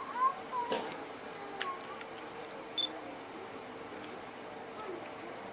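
Insects chirring steadily at a high pitch, with a few faint clicks and brief sliding sounds in the first couple of seconds.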